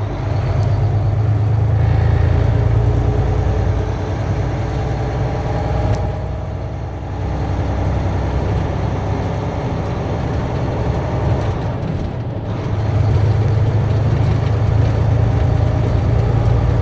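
Semi truck's engine running at road speed, a steady low drone with road noise that eases off briefly about six seconds in and again near twelve seconds, then grows louder.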